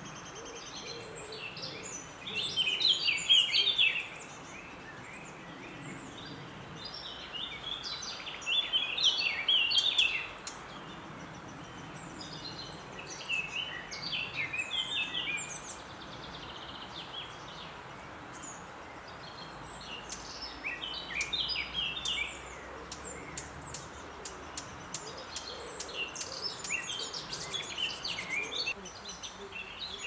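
Wild birds calling and singing: loud chirping phrases about two seconds long recur every few seconds, over a steady background hiss.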